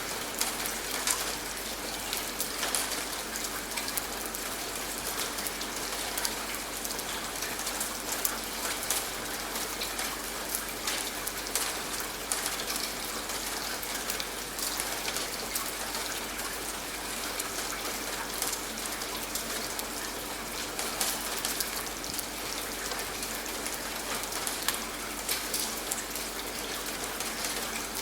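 Steady rain falling on a surface, an even hiss dotted with many distinct drop hits.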